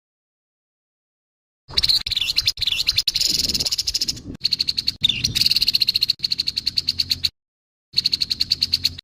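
Grey-headed babbler giving its harsh call: fast rattling runs of rasping notes. The calls start nearly two seconds in, break off briefly near the end, then resume.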